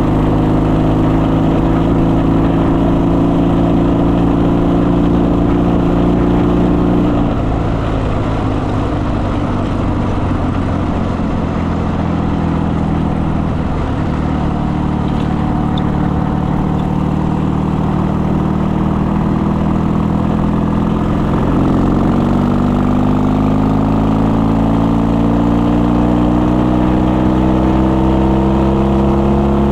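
Motorcycle engine running under way, holding a steady pitch, then dropping in pitch about seven seconds in and climbing steadily again through the last third as the bike speeds up.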